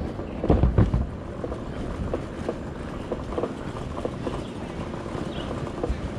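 Road and traffic noise with wind buffeting the microphone while riding an e-bike, with a loud low rumble about half a second in and scattered faint clicks.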